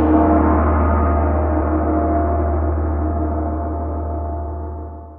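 Long metallic ring with a deep hum beneath it, left by a single heavy strike just before, fading slowly and dying away near the end.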